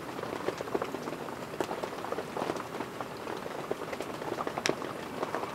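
Steady rain pattering, with many irregular drops ticking close by.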